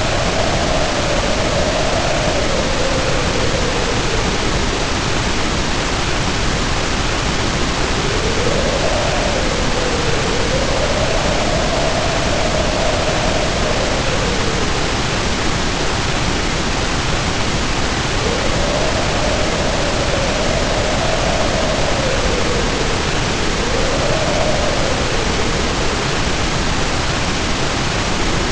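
Storm sound: a steady, heavy rush of rain, with wind howling over it. The howl rises and falls in pitch in slow gusts, dies away between them, and comes back three times.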